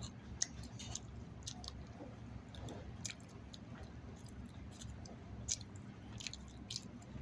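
A person chewing chicken salad and pita bread close to the microphone, with irregular smacking clicks of the mouth.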